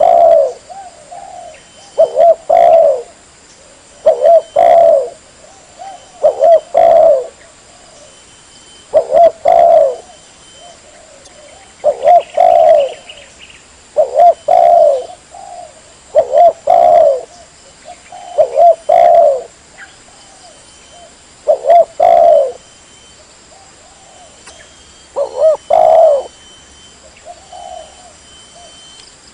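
Spotted dove (tekukur) cooing: a short phrase of several quick, low coo notes, repeated about every two to three seconds, about a dozen times. This is a lure call for drawing tekukur in.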